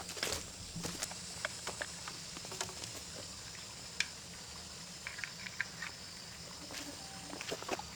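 Faint, scattered light clicks and knocks, irregular and a few per second, over a faint steady hiss.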